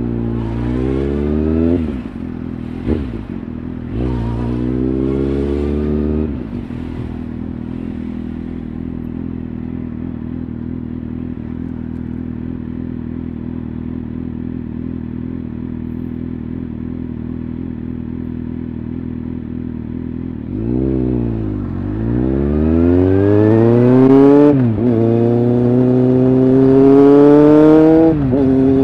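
Kawasaki Z750S motorcycle's inline-four engine. It revs up briefly twice, settles to a steady idle for about fourteen seconds, then pulls away hard, the pitch climbing through the gears with two upshifts near the end.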